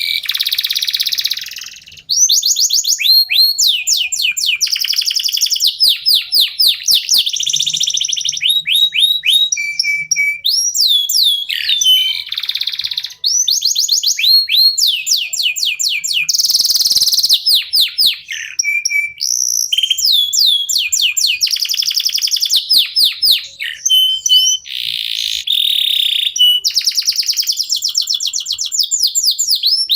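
Domestic canary song: fast trills of repeated down-sweeping whistled notes and rolls, sung almost without a break.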